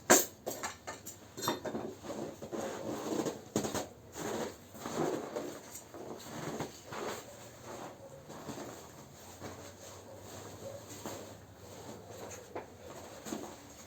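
Campfire crackling and snapping in sharp irregular pops, loudest in the first second, then softer.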